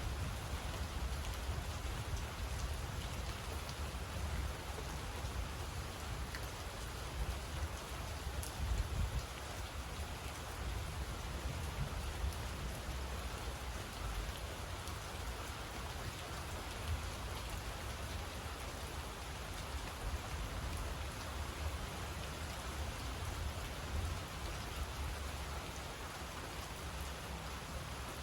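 Steady rain falling, with an even hiss, a few sharp drop ticks and a constant low rumble underneath.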